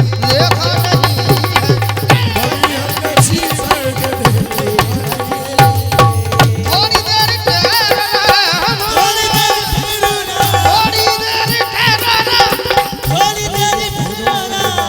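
Instrumental interlude of a live Hindi devotional bhajan: hand-drum strokes with a deep bass thud under a bending melody line on accompanying instruments.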